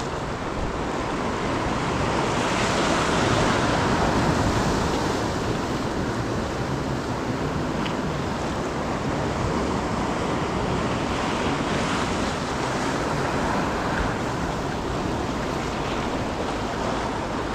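Ocean surf breaking and washing on the shore in a steady rush, swelling louder a few seconds in, with wind buffeting the microphone.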